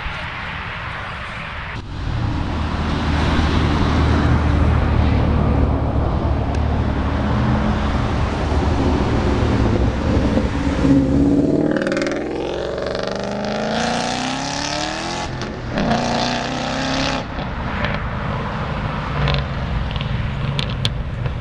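A performance car's engine running loud, then accelerating hard past, its note climbing in pitch about halfway through.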